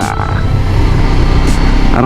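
Honda CBR500R's parallel-twin engine running steadily, with a low rumble of wind and road noise on the helmet camera.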